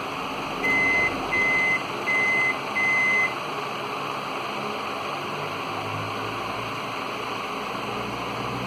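Microwave oven control board's buzzer beeping four times in an even rhythm, each beep a single steady tone, over a steady hiss.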